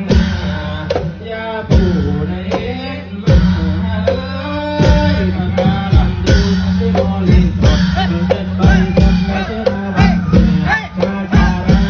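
Live Roam Trot folk song: singing over regular drum strikes and a steady low drone from the instruments.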